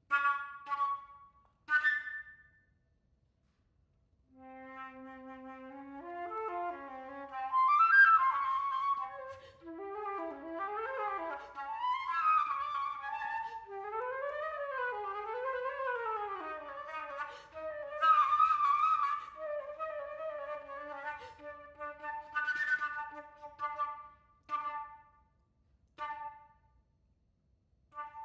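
Solo concert flute playing a contemporary piece: a few short, sharp notes, a pause of about two seconds, then a low held note that climbs into quick runs rising and falling, ending with short separate notes.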